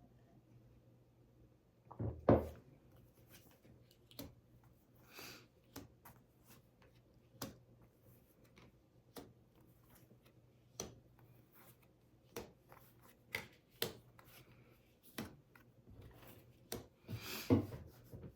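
Tarot cards being handled on a table: irregular light clicks, taps and rubs, roughly one or two a second, with a louder knock about two seconds in.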